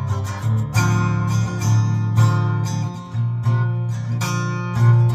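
Acoustic guitar strumming chords: instrumental music between sung verses.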